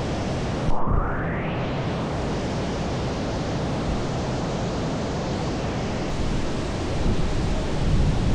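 Steady, even rushing noise that briefly drops out about a second in and then carries on unchanged.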